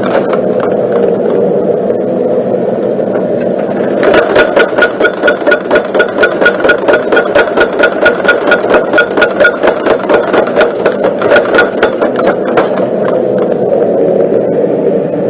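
Motor-driven power hammer running, its ram striking rapidly at about five blows a second for several seconds in the middle, then the motor running on without blows.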